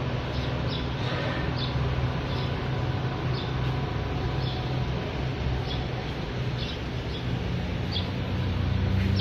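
A small bird chirping in short, high notes every half second to a second, over a steady low mechanical hum.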